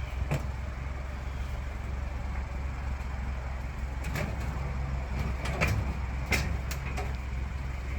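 A vehicle engine runs with a steady low hum. Over it comes a series of sharp metal knocks and clanks, mostly in the second half, as bicycles are shifted and stacked for loading.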